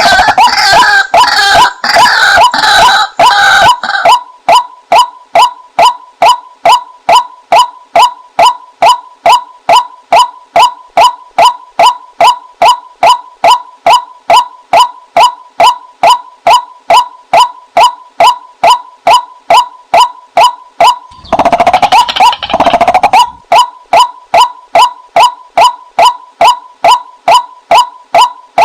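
White-breasted waterhen calling: a steady, even series of short 'kwak' notes at about two a second. A louder, harsher chattering burst comes at the start and again about 21 seconds in. It is a looped female call used as a bird-trapping lure.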